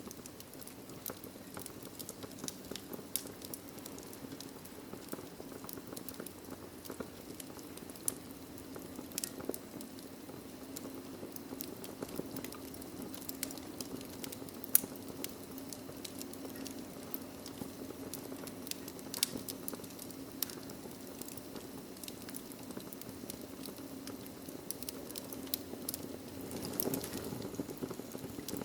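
Wood fire burning in a fireplace: a steady low rush of flame with irregular sharp crackles and pops throughout, one pop standing out about halfway through.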